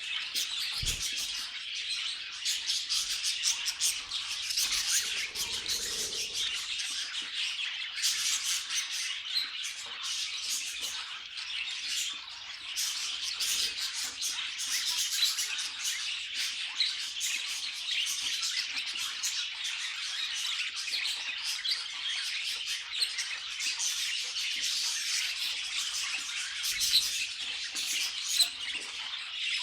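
Several budgerigars chattering and warbling together, a dense continuous stream of quick chirps, trills and squawks.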